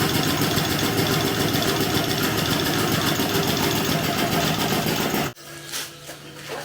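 Cylinder boring machine running steadily as it cuts dry into a cylinder of a Ford 302 V8 block, then shutting off suddenly about five seconds in, leaving a low steady hum.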